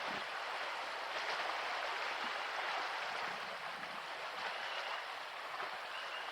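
River water lapping and splashing steadily, with a few faint bird chirps in the second half.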